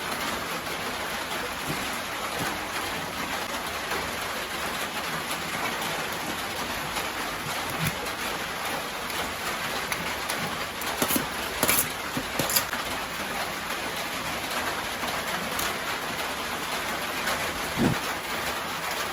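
Rain falling steadily, with a few sharper taps around the middle and one near the end.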